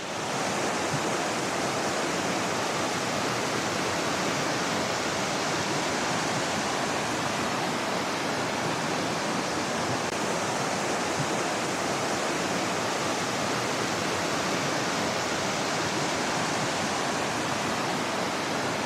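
Steady rushing of a small river cascading over boulders in a low waterfall.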